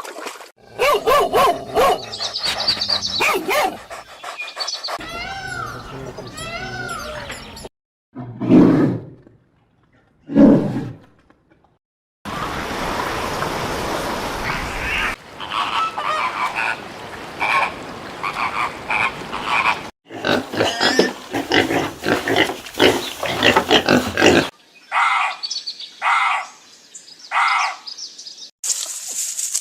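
A run of animal calls from several different animals, one short clip after another: pitched calls, two short deep calls about a third of the way in, and four evenly spaced calls near the end.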